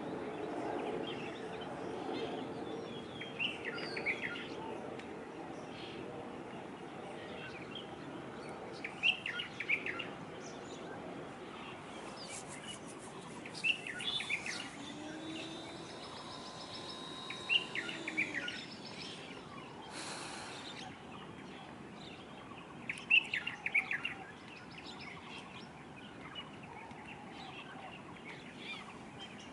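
Small birds chirping in short spells every few seconds over a steady background of distant noise.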